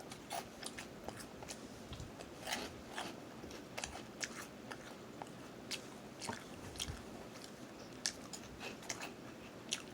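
A person chewing crunchy cheese-flavoured corn curls: faint, irregular crunches and crackles.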